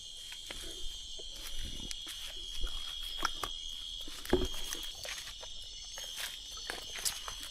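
Night forest insects, crickets trilling in a steady high chorus, with scattered crackles of footsteps on leaves and twigs and one louder thump about four and a half seconds in.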